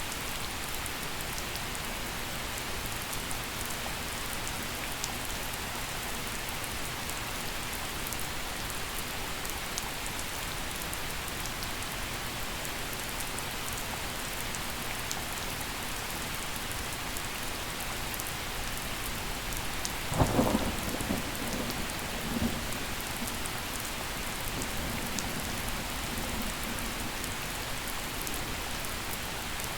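Steady gentle rain falling, with a sharp clap of thunder about two-thirds of the way through that rolls on as a fading rumble for several seconds.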